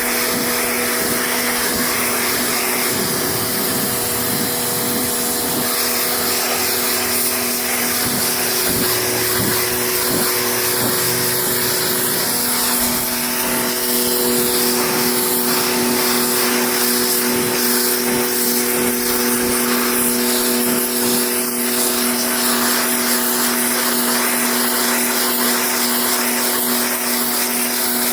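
Pressure washer running steadily, its motor and pump giving a constant hum under the loud hiss of the water jet spraying onto car carpet and seat fabric.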